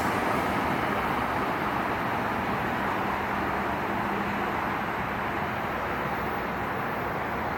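Steady rushing rumble of a passing train that fades slowly as it moves away.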